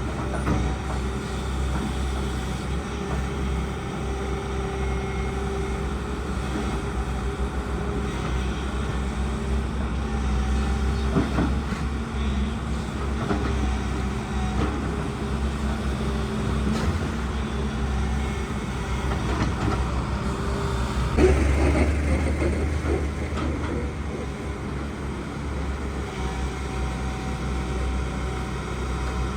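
Excavator's diesel engine running steadily under work, a constant low drone. About three-quarters of the way through it briefly grows louder with a sharp knock.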